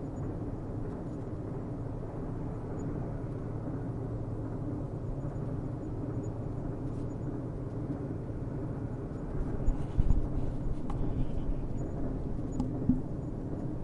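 Steady low rumble of a distant train running on the rails, with a short cluster of knocks and clicks about ten seconds in.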